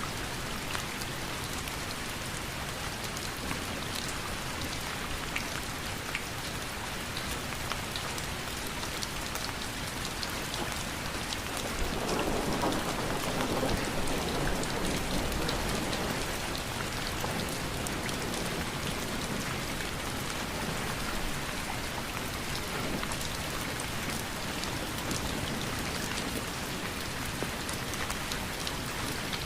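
Steady rainfall, with individual drops ticking through the hiss. About twelve seconds in it grows louder and fuller for a few seconds, then settles back.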